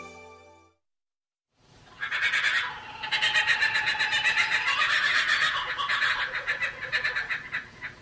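Music fades out, and after a brief silence birds start calling in a dense, rapid chattering that carries on from about one and a half seconds in.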